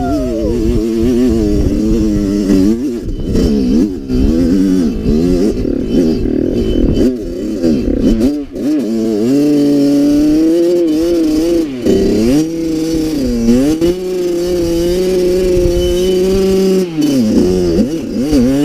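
Kawasaki KX112 two-stroke dirt bike engine under load on a hill climb, its revs rising and falling over and over. About halfway through the revs settle and are held steady for a few seconds, dip, hold again, and drop near the end.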